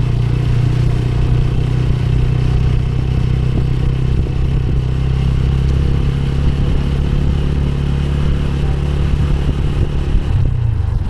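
Motorcycle engine running at a steady pace while riding, its note dipping briefly near the end.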